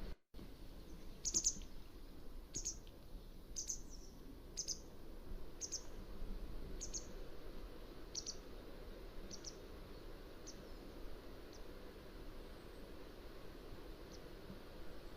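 Mountain wagtail giving a series of short, high, sharp call notes, about one a second, fading after about ten seconds to a few scattered faint notes. There is a steady faint background noise and a brief dropout right at the start.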